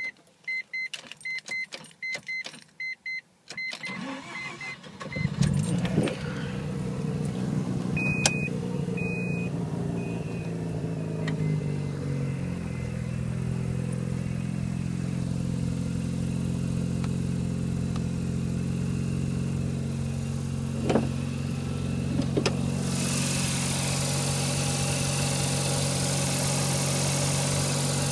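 Mazda RX-7 with a turbocharged rotary engine. A warning chime beeps repeatedly for the first few seconds, then the engine starts about five seconds in, runs at a fast idle and settles to a steady lower idle about twelve seconds in. Two short beeps sound about eight seconds in, and a steady hiss joins near the end.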